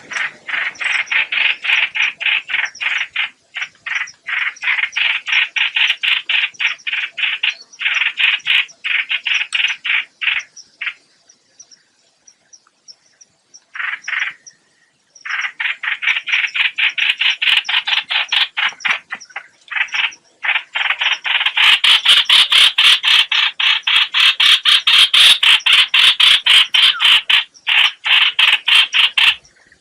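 A recorded lure call of the 'hoạch hoạch' bird: long runs of rapid, harsh, repeated notes, about five a second. There is a pause midway, and the calling turns louder and denser in the last third.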